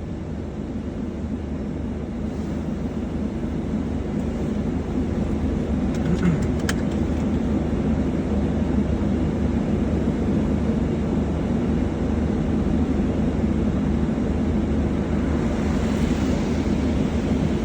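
Steady low rumble of a vehicle that builds slightly over the first few seconds, with a few brief clicks about six seconds in.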